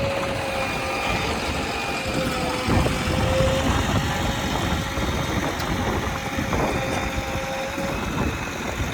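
Heavy diesel engine running steadily, with a steady whine over the rumble.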